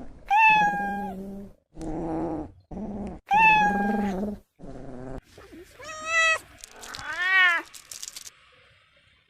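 Cats meowing: about seven drawn-out meows, some high and others lower, a few ending in abrupt cuts.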